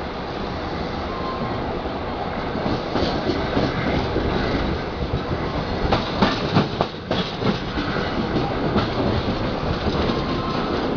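Passenger train running at reduced speed, heard from an open carriage window: a steady rumble of wheels on rail, with a run of sharp clacks and knocks about six seconds in.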